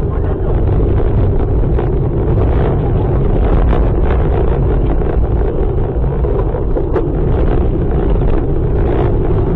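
Loud, steady rumble of a moving vehicle with wind noise on the microphone, as recorded by a dash cam, with scattered crackles.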